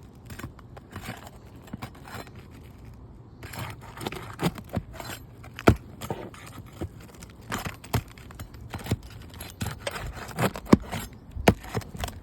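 Roof shingles being pried and worked loose to free their nails: irregular scraping with sharp clicks and knocks, starting about three seconds in.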